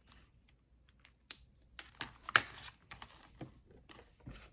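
Paper cash and envelopes being handled: irregular rustling with a few sharp clicks and taps, the loudest about two and a half seconds in.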